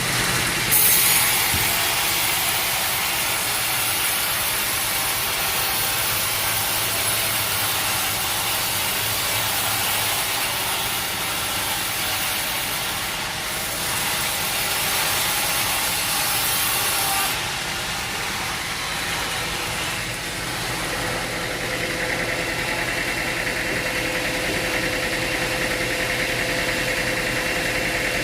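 Sawmill machinery running steadily, with a loud, hissy high-pitched cutting noise from about a second in until about seventeen seconds in, typical of a saw going through a log. After that the engine runs on at an even pitch.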